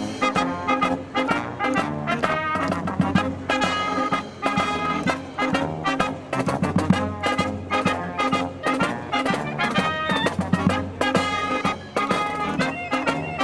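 Live brass marching band playing a Disney medley, with trumpets and trombones carrying the tune over a steady beat.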